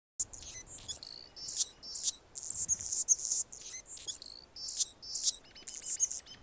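Male Anna's hummingbird singing: a fast run of high, scratchy, buzzy phrases, several per second, starting abruptly.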